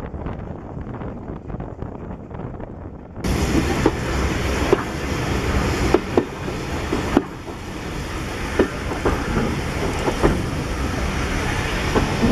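Steam-hauled passenger train heard from a coach window: wind on the microphone over a muffled run, then, after a sudden cut about three seconds in, a louder rolling rumble of the coaches with a scatter of sharp clicks from the wheels on the track.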